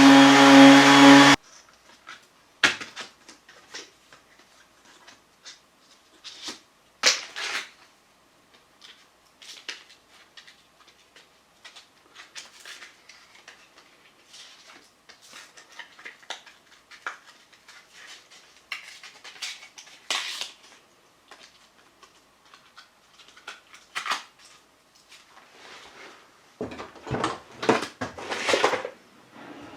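Cured body filler on a car sill being sanded down. A motor's steady whine cuts off about a second in, followed by scattered faint scrapes and taps. Near the end come a run of louder rubbing strokes of sanding.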